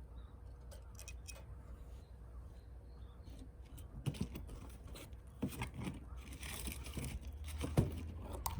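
Hands handling brittle, dry fuel material: scattered crunches, snaps and clicks start about halfway through, with a rustle and then a louder knock near the end, over a low steady rumble.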